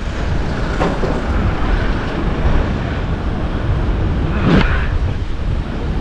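Wind buffeting the microphone while riding, as a steady low rumble, with a brief sharp sound about four and a half seconds in.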